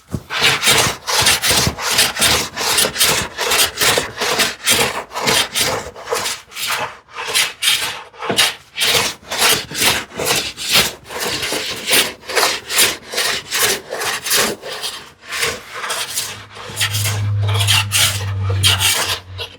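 Hand plane taking quick, repeated strokes across a solid cherry panel, worked diagonally corner to corner to flatten it, at about two to three shaving strokes a second. A low hum joins in for a couple of seconds near the end.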